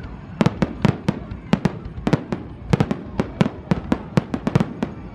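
An irregular run of sharp cracks or claps, about four or five a second.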